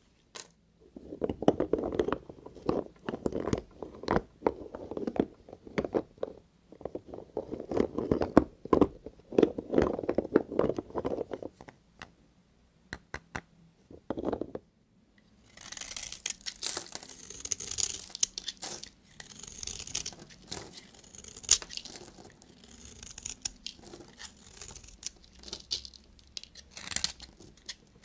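A knife cutting through bar soap, a dense run of crunchy cracks and clicks. After a pause of a few seconds with a few single clicks, a higher, hissier scraping and crackling sets in.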